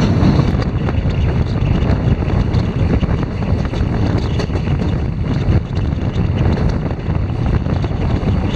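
Moving passenger train heard from the side of a coach: wind buffeting the microphone over the steady rumble of the wheels on the track.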